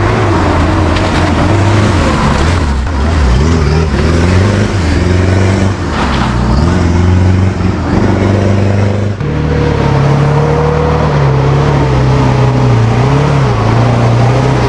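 Off-road vehicle's engine running under load while driving, its pitch rising and falling with the throttle, and a clear change in engine note about nine seconds in, as at a gear change.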